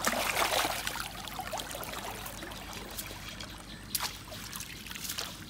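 Water splashing and trickling, loudest in the first second, with a few sharp clicks later on.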